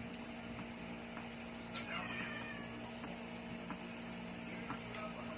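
A cat meowing once, about two seconds in: a short call falling in pitch. Faint clicks of dishes or utensils sound in the background.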